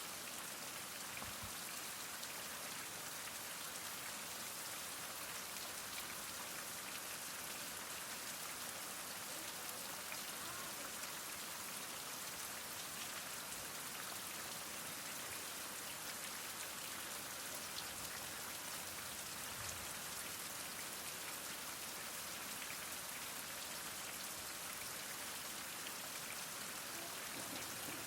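Heavy rain falling steadily, an even hiss of many drops with scattered individual drop ticks.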